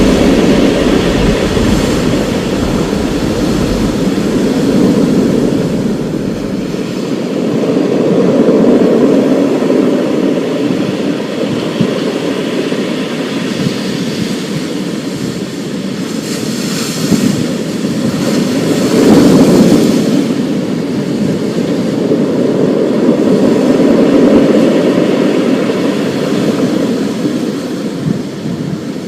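Thunderstorm: thunder rumbling and rolling over steady rain, swelling and easing in long waves, deepest in the first few seconds, with a brighter surge a little past the middle.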